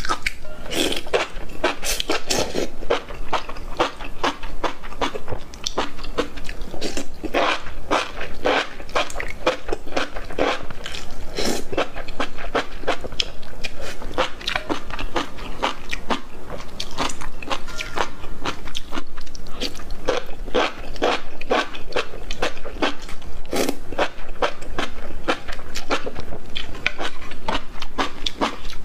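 Close-miked mukbang eating: chewing and slurping enoki mushrooms, a dense run of short wet crunches and mouth clicks, several a second.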